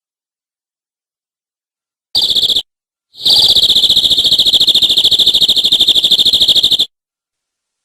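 Domestic canary singing: a short trill about two seconds in, then a long, rapid trill held on one high pitch for over three seconds that cuts off suddenly.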